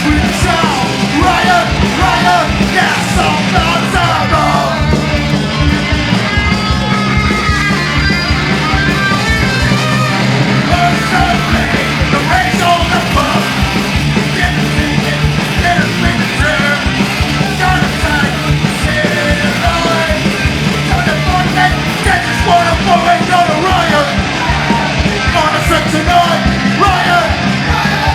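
Live punk rock band playing loud and full-on, with shouted vocals over the band.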